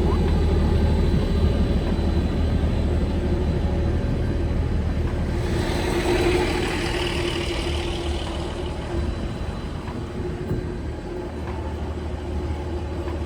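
A large engine idling steadily. About halfway through, a hiss swells and fades over a few seconds.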